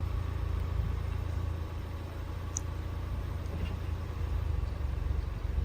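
Car engine running with a steady low rumble, starting abruptly.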